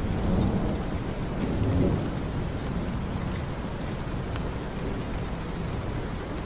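Steady heavy rain falling, with a low rumble that swells twice in the first two seconds.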